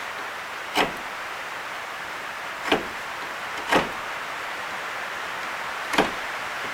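Four short, sharp knocks of hard wood or a tool against the workbench, spread irregularly over a few seconds, over a steady background hiss.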